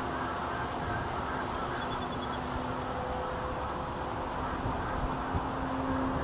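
Electric RC Extra 260 model plane's propeller and outrunner motor humming at a steady pitch, with wind rumbling on the microphone.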